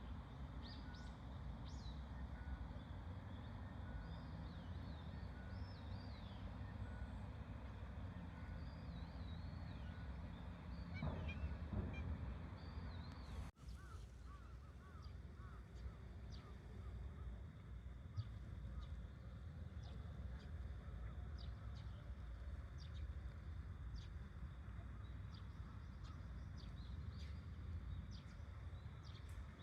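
Small birds chirping and twittering over a steady low outdoor rumble, with a short repeated peep about once a second in the first part; an abrupt break about halfway through.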